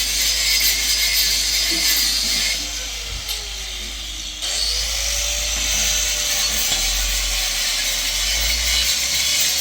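An electric power tool running, probably on wood, slowing down with a falling pitch about two and a half seconds in, then starting up again about four and a half seconds in and running steadily.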